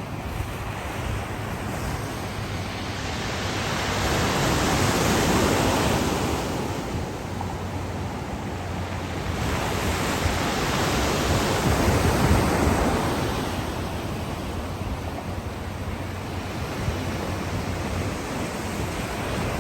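Black Sea surf washing onto the shore in a steady hiss, with two larger waves swelling and breaking about four seconds in and again about ten seconds in.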